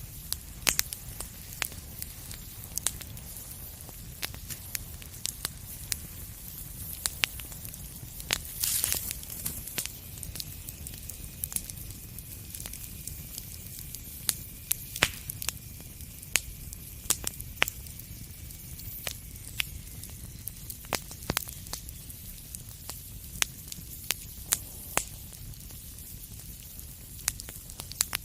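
Wood fire in a fireplace crackling, with irregular sharp pops over a steady low rumble and soft hiss. About nine seconds in there is a brief louder hiss, followed by a faint, thin, high whistle lasting several seconds.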